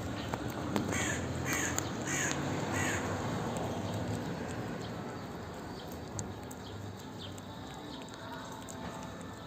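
An animal call, a harsh caw-like call repeated four times in quick succession about a second in, over steady background noise.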